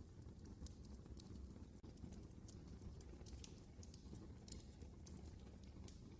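Fire in a fireplace crackling faintly: irregular sharp snaps and pops, several a second, over a low steady rumble of the flames.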